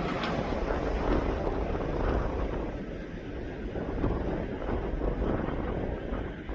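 Wind gusting against the microphone: a rough, fluctuating low rumble.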